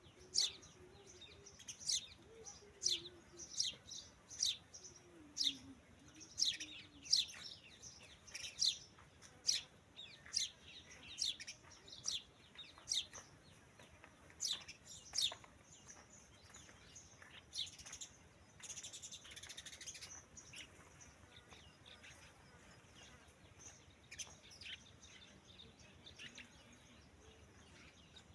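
A bird calling over and over with short, sharp chirps that drop steeply in pitch, about three every two seconds for the first half, then fewer and more scattered.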